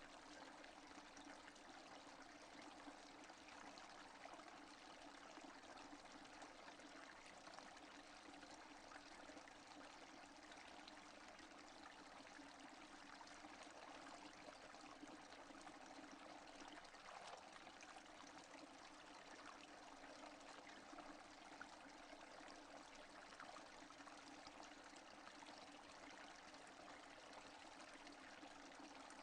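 Steady, faint rain: an even hiss of many small drops falling, with no thunder.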